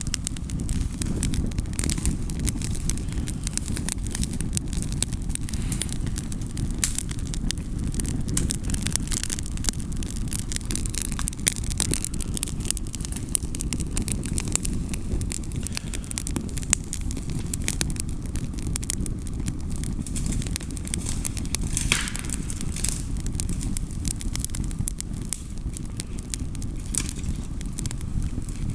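Wood campfire crackling, with many small irregular pops over a steady low rumble and one louder snap about three-quarters of the way through.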